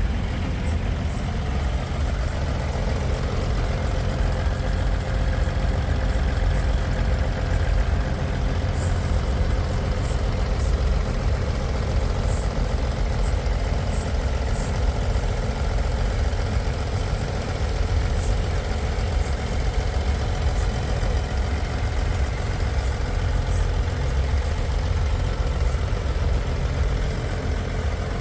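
Semi truck diesel engine idling, a steady low rumble.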